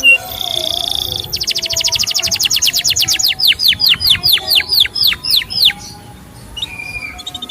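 Male canary singing: a short buzzy note, then a very fast rattling trill, then a run of falling whistled notes about six a second, ending in a few softer notes.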